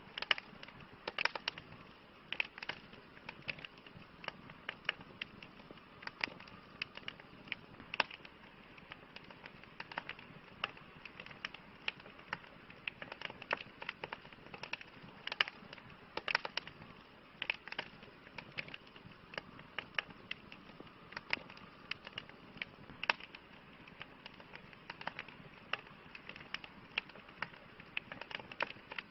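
Wood campfire crackling: many irregular sharp pops and snaps over a soft, steady hiss.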